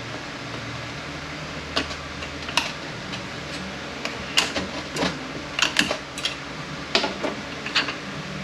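Metal parts of a Mercedes 722.118 automatic transmission clinking and clattering as they are handled during teardown, about eight sharp metallic clinks at irregular intervals. A steady low hum runs underneath.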